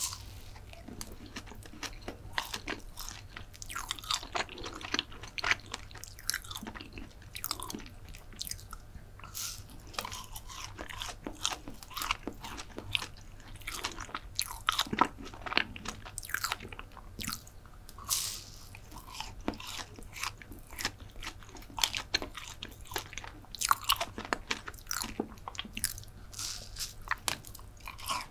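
Biting and chewing a chocolate brownie into an ASMR microphone: a steady, irregular run of small clicks and smacks of the mouth.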